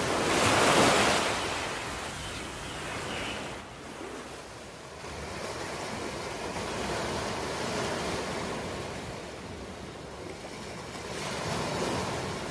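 Ocean waves breaking on a shore. One wave crashes loudly about a second in and washes out, then the surf quietens and a smaller wave builds near the end.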